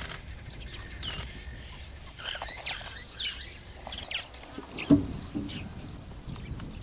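Wild birds chirping in short, scattered notes, with a brief low call about five seconds in that is the loudest sound.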